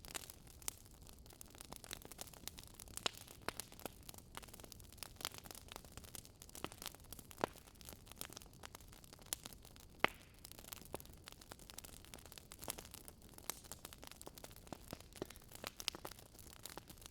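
Wood fire crackling: irregular sharp pops and snaps, a few a second, over a soft, steady hiss.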